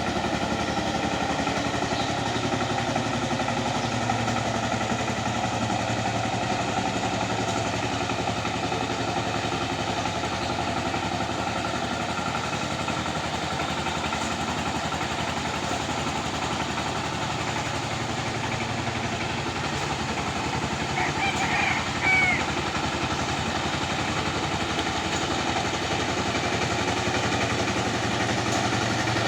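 Tractor engine running steadily while cultivating a field. About two-thirds of the way through, a brief high wavering call is heard over it.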